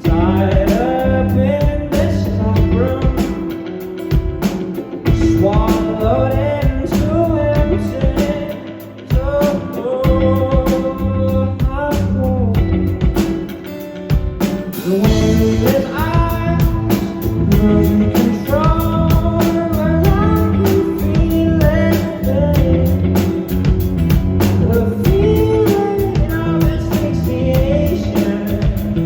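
Live rock band playing, with a man singing the melody over electric guitar, bass and drums.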